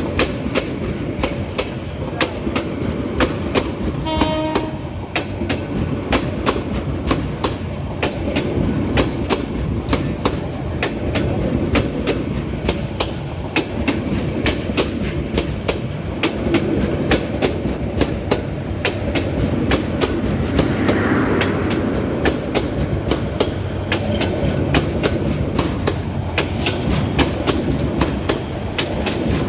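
Passenger train wheels clattering rapidly and steadily over rail joints, with the rumble of the moving train underneath. A short horn blast sounds about four seconds in.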